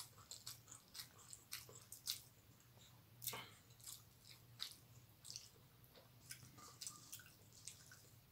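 Faint, wet chewing and lip-smacking of a person eating rice and dal by hand, with scattered short smacks and the soft squish of fingers gathering rice on a steel plate.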